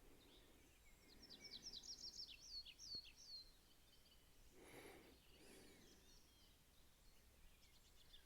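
A songbird singing faintly: one quick phrase of about a dozen high, falling notes that starts about a second in and lasts some two and a half seconds. A brief soft noise follows near the middle.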